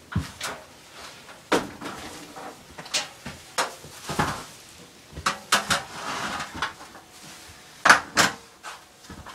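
Irregular sharp knocks and clatter with some scraping in between, from work tearing out and handling damaged flooring in a small room.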